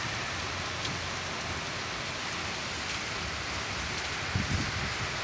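Heavy rain pouring steadily, an even hiss of rain on the road and ground. A brief low rumble comes in near the end.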